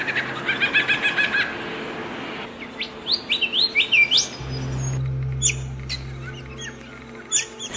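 Songbirds calling: a fast run of chirps at the start, then a quick series of rising whistled notes about three seconds in, then scattered sharp high chirps. A low steady hum sits underneath in the second half.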